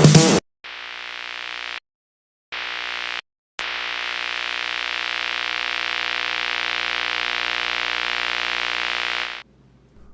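Steady electrical static: a hiss over a buzzing hum, coming in three stretches broken by two short dead silences, the last one about six seconds long and cutting off sharply near the end. The tail of electronic music ends in the first half second.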